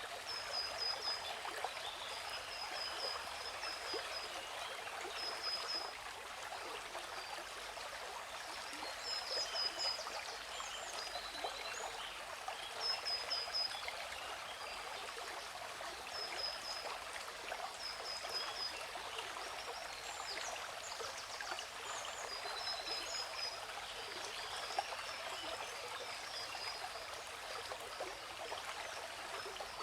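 Waterfall rushing steadily, with a bird repeating a short, high chirping phrase every second or two.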